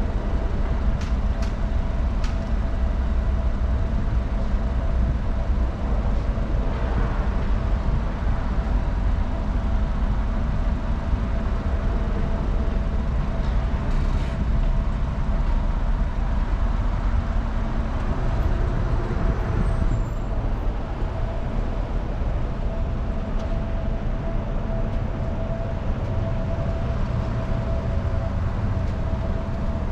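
Car engine idling, heard from inside the cabin: a steady low rumble with a faint constant hum on top.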